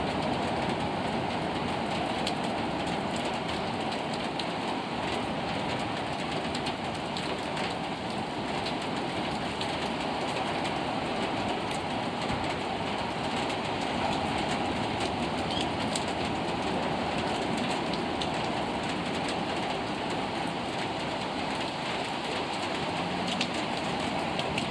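Steady rain falling, an even rushing hiss with occasional sharper drip ticks.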